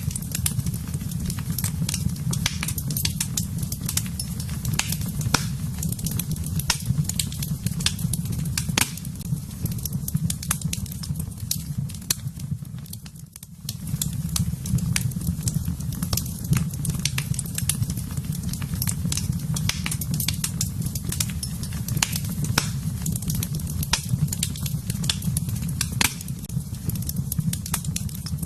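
Wood fire in a fireplace crackling and popping over a steady low rumble of the flames. The sound dips briefly about halfway through.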